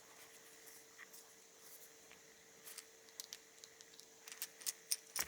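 Faint, scattered light clicks and small rattles of a kitchen faucet handle and its small parts being handled and fitted together, coming more often near the end, over a faint steady hum.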